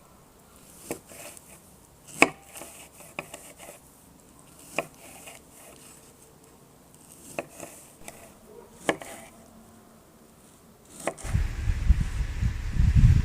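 Knife chopping on a wooden cutting board: single sharp chops every second or two. About eleven seconds in, a loud low rumble sets in.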